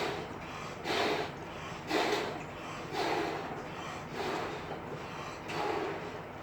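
A person blowing up a rubber balloon by mouth: short puffs of breath into the balloon, about one a second.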